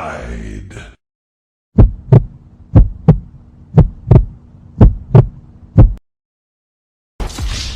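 Heartbeat sound effect: five double thumps (lub-dub), about one a second, over a faint steady hum.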